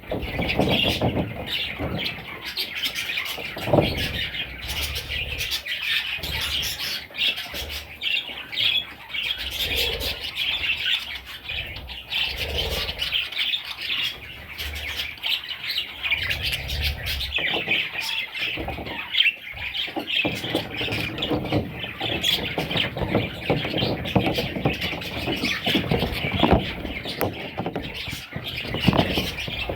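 Budgerigar chicks calling with dense, raspy chirping and squawks that go on without a break, over irregular low bumps and rustling.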